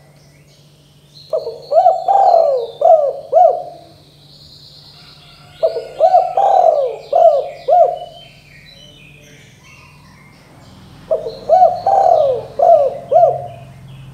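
Spotted dove (tekukur) cooing in three phrases of about five coos each, a few seconds apart. Faint chirping of small birds and a low steady hum run behind.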